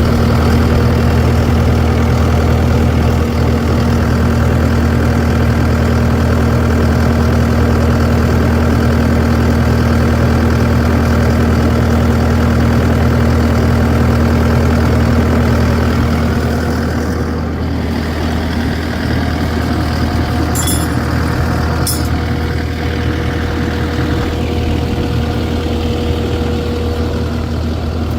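A large vehicle engine idling steadily. A little past halfway it settles to a slightly quieter, lower idle, and two short clicks follow soon after.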